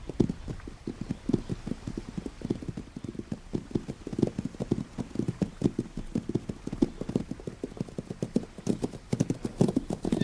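Hoofbeats of wild horses running: a fast, uneven patter of many hoof strikes on the ground.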